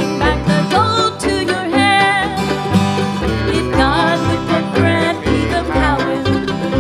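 Bluegrass band playing live, with plucked strings over bass notes that change in a steady rhythm.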